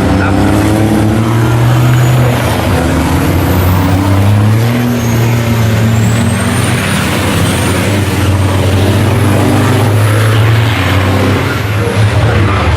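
Heavy racing trucks' diesel engines running hard on track, the engine note rising and falling. Thin high whistles glide up and down above the engines.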